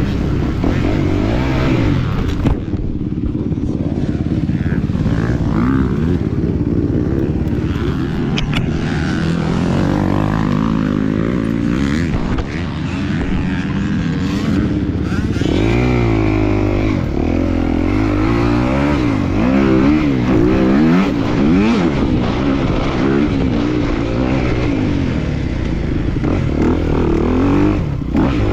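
250 cc motocross bike engine running hard on a race track. Its pitch climbs and falls over and over as the throttle is opened and rolled off.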